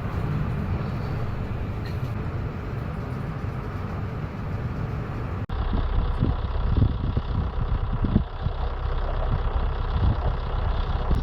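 Steady low rumble of a ship at sea in a storm, engine and wind noise together. About five and a half seconds in it cuts abruptly to a heavier low rumble with irregular dull thumps.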